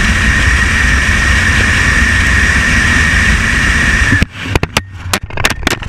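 Car on the move, heard through a mounted GoPro: a steady rumble of engine and road noise with a steady high whine. About four seconds in it cuts off suddenly, giving way to a run of sharp clicks.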